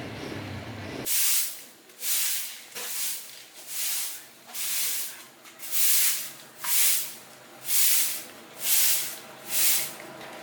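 Short bursts of hissing, about ten of them, each around half a second long and repeating roughly once a second, beginning about a second in.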